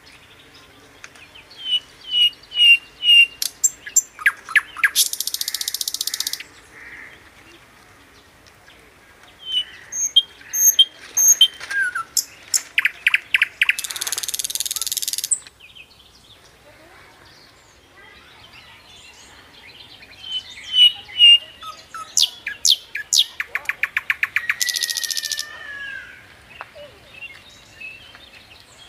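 Birds singing: a loud song of repeated chirps that speeds into a fast clicking trill and ends in a rasping rattle of over a second, given three times about ten seconds apart, with fainter high chirps between.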